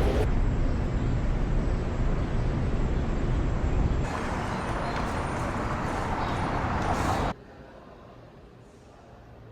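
A steady, loud outdoor rumble with no clear pitch, heaviest in the low end. It changes abruptly about four seconds in and drops much quieter about seven seconds in.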